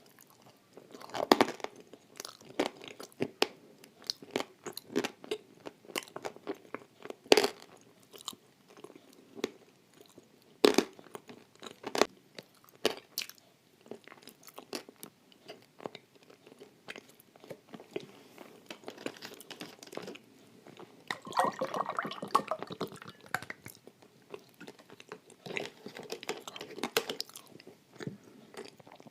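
Close-up crunching and chewing of dry edible clay: a run of sharp bites and crunches, the loudest about one and seven seconds in, with a denser stretch of chewing about two-thirds of the way through.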